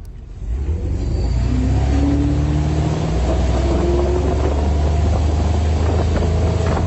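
An engine running hard and revving up, its pitch climbing slowly over a steady low rumble.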